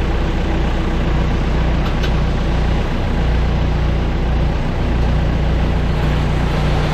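Steady, loud running of airport ground machinery during aircraft unloading, a continuous engine noise with a low hum and no breaks.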